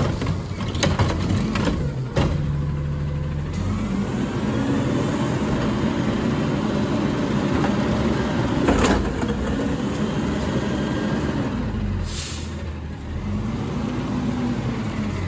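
Garbage truck working a stop: its diesel engine speeds up and slows down as the hydraulics run, with several knocks in the first couple of seconds, a sharp bang about nine seconds in and a short hiss of air about twelve seconds in.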